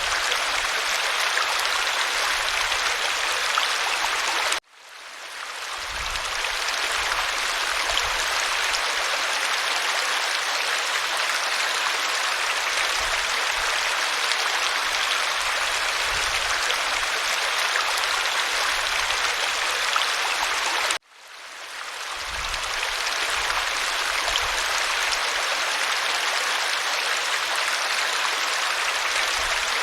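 Waterfall: a steady rushing of falling water. It cuts out abruptly twice, about 16 seconds apart, and each time swells back in over a second or two.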